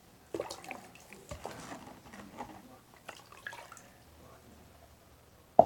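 Slime being squished and worked by hand, giving scattered small wet clicks and pops, with one sharp, loud click near the end.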